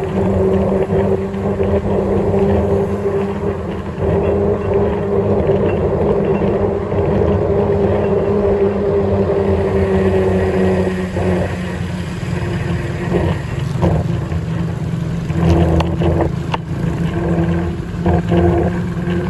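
Motorcycle engine running steadily while riding, under road and wind noise; the engine note eases a little about ten seconds in, and a few knocks come in the second half.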